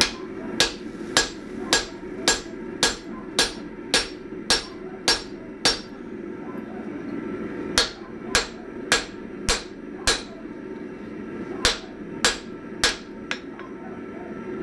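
Blacksmith's hammer striking a hot steel ax blank on the anvil, about two ringing blows a second in three runs (ten, then five, then three) with short pauses between, and a light tap near the end. A steady low hum runs underneath.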